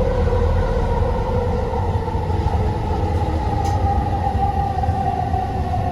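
Elevated sky train running along its track, heard from inside the car: a steady low rumble with a motor whine that slowly falls in pitch.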